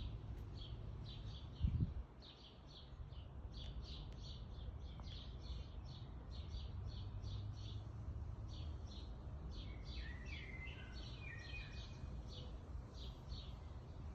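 A small bird chirping over and over, a short high chirp two or three times a second. A brief warbling call comes about ten seconds in. A steady low outdoor rumble lies underneath, with one dull thump near the start.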